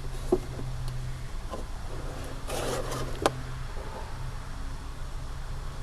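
Razor blade cutting through the side of a plastic coolant jug: scraping with a few sharp clicks, over a low hum that comes and goes.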